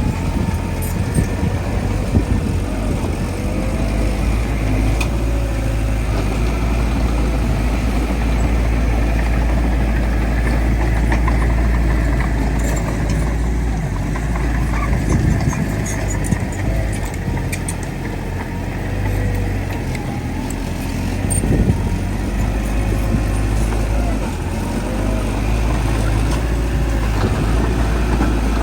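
Bulldozer's heavy diesel engine running steadily under load with a deep, continuous rumble, with occasional light clicks and clanks over it.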